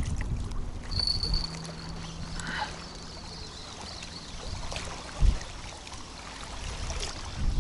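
Strong wind buffeting the microphone, a steady low rumble, with one short thump about five seconds in.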